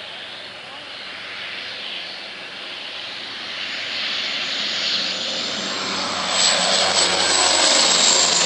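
Fixed-wing aircraft approaching low, its engine noise growing steadily louder, with a high whine rising in pitch and loudest near the end.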